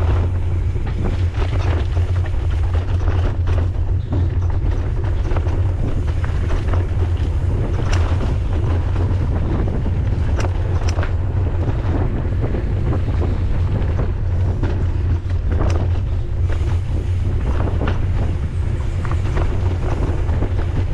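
Wind buffeting the microphone of a camera riding on a mountain bike at speed, a steady low rumble, with scattered short clicks and knocks.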